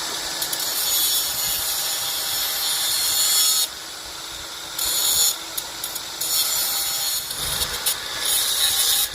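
Power grinder grinding down a lead shim for an undersized battery terminal post, a harsh steady hiss in long passes that eases off briefly about four seconds in.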